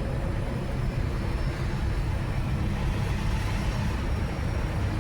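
Steady engine and road noise of a semi-truck heard from inside the cab while driving, a low rumble with no sudden changes.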